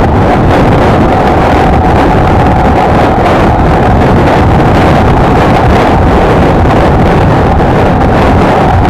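Honda XLR125R's single-cylinder four-stroke engine running at a steady cruising speed, with heavy wind noise buffeting the microphone as the motorcycle rides along.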